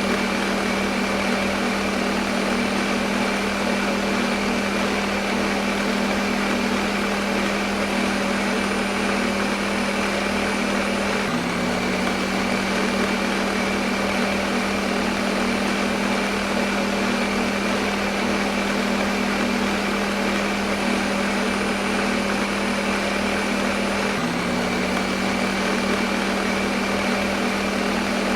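Electric kitchen blender motor running steadily: a constant whirring hum over an even rushing noise. Twice the pitch dips slightly and picks up again.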